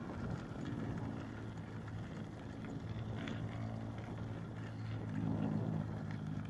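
A motor vehicle's engine running: a steady low hum that grows a little louder near the end.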